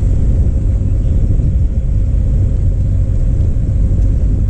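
Steady low rumble of a car driving slowly in stop-and-go traffic.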